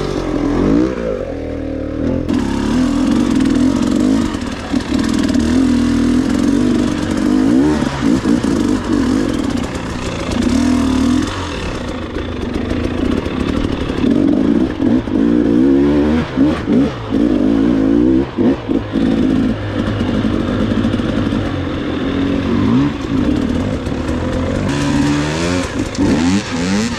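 Dirt bike engine under way on a rough trail, its pitch rising and falling again and again as the throttle is opened and closed, with a few short throttle-off dips in the second half.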